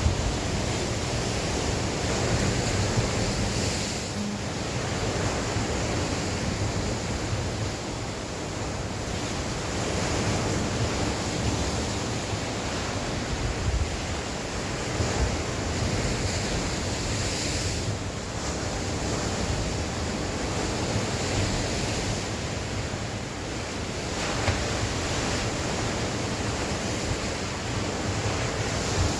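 Sea waves breaking and washing on the shore, the surf rising and falling in slow swells every few seconds, with wind blowing across the microphone.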